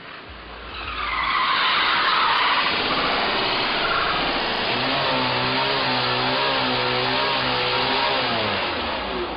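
Car tyres skidding on the road in a long screech that builds about a second in. Through the second half it takes on a wavering pitch, then fades near the end.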